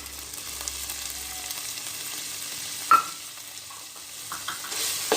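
Shallots and ginger-garlic paste frying in oil in a cooking vessel, a steady sizzle as the spices are stirred in. One sharp metallic clink about three seconds in.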